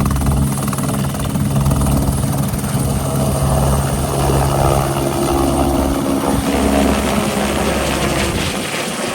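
Helicopter running close by: a steady turbine and rotor drone over a low rotor beat. The pitch shifts partway through, and the low beat drops away near the end as the helicopter leaves.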